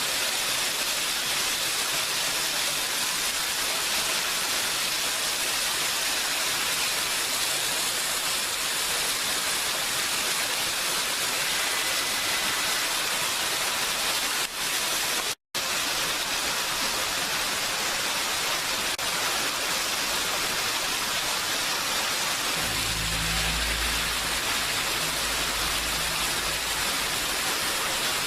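Steady heavy rain, an even hiss of drops. The sound cuts out for a split second about halfway, and a low rumble joins near the end.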